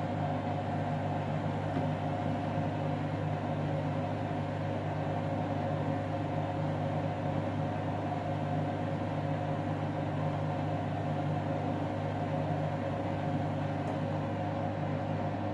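Candy front-loading washing machine in its final spin at 1600 rpm, the drum turning fast with the laundry pinned to its wall. It gives a steady motor hum and whine that holds even in pitch and level.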